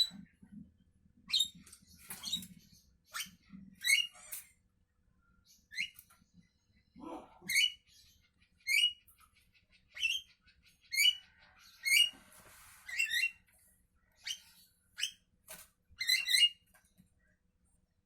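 Javan myna calling: a series of short, sharp, squeaky notes, roughly one or two a second, with one lower, rougher call about seven seconds in.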